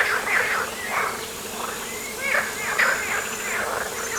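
Wildlife calls by the water: a run of short, repeated chattering calls, some stepping down in pitch, over a faint steady high-pitched whine.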